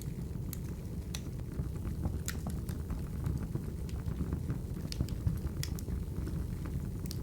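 Crackling wood-fire ambience: a steady low rumble with scattered sharp pops and snaps every fraction of a second.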